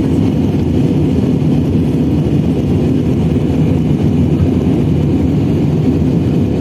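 Aeroplane engine noise: a loud, steady low drone that does not change.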